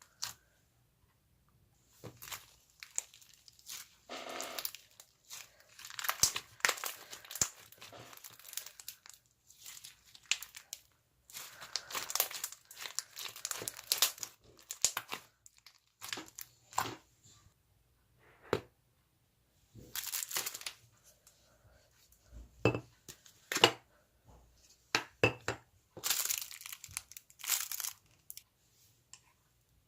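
Slime being squeezed, stretched and poked by hand: irregular clusters of sharp clicks and rustling noise with short pauses between them.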